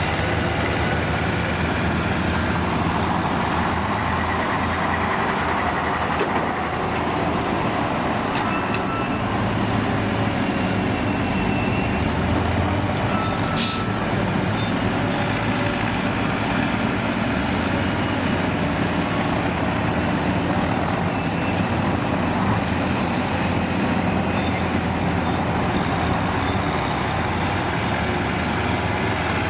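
Large diesel engine of a heavy truck or machine running steadily, with small changes in load and one sharp click about halfway through.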